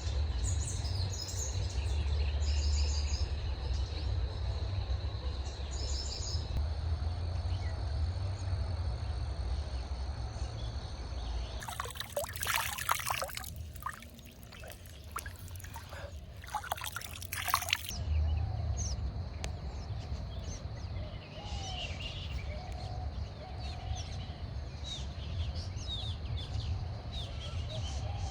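Water trickling and flowing with birds chirping over a steady low rumble. For about six seconds in the middle, a brighter crackling, splashing noise takes over, then the flowing water and birdsong return.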